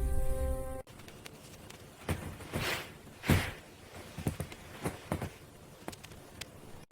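Irregular footsteps, about eight heavy steps with crunchy thuds, the loudest about a third of the way through. A short stretch of music cuts off suddenly under a second in.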